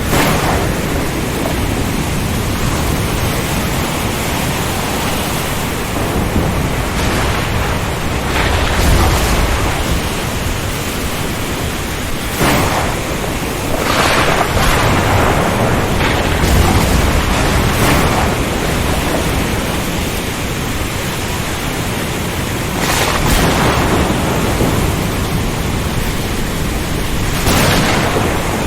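Storm at sea: a steady roar of strong wind and rough water over a deep rumble, with brief louder rushing surges every few seconds.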